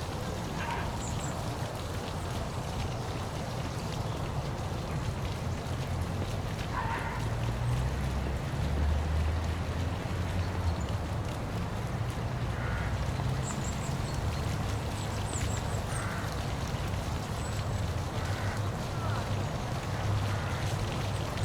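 Park waterfall rushing steadily with a deep low rumble, and a few faint short calls scattered through it.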